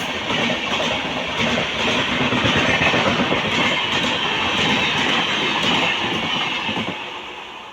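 A train running past on the rails, its wheels clattering rapidly, the sound fading away near the end.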